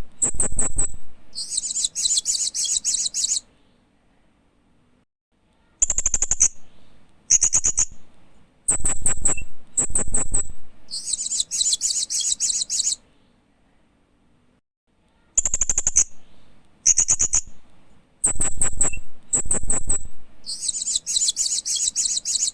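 Hanging parrot (Loriculus) calling: quick series of sharp, very high chips, each bout ending in a dense high buzzy trill of about two seconds. The bouts come three times, separated by short pauses.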